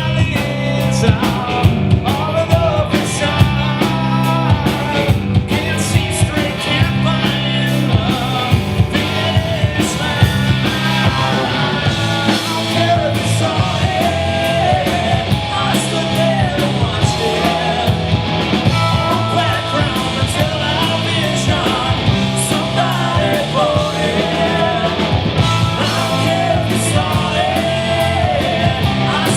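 A rock band playing live, with drums, electric guitar and bass at full volume and a steady beat.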